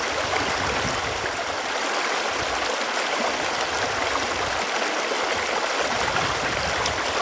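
Running water flowing steadily, an even rushing hiss with no breaks.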